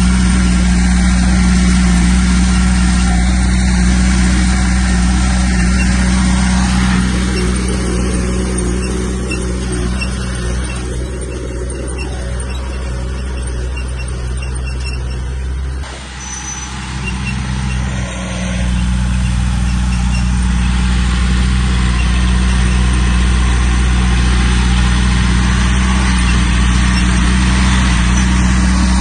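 Komatsu bulldozer's diesel engine running steadily, its deep note dropping away for about two seconds past the middle before picking up again.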